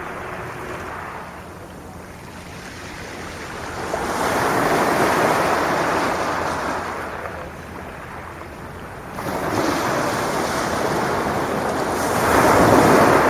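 Sea waves breaking and washing up the beach in slow surges, about three of them, the loudest near the end.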